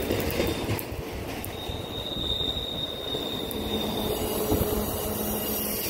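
BNSF double-stack container train rolling past on a curve, its wheels running with a steady rumble. A thin high wheel squeal from the curve comes in about a second and a half in and holds for a couple of seconds.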